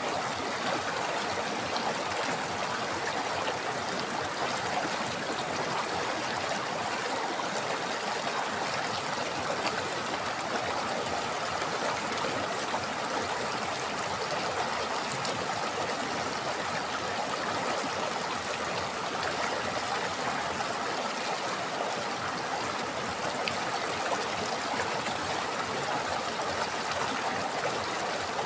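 River water flowing over stones, a steady babbling rush.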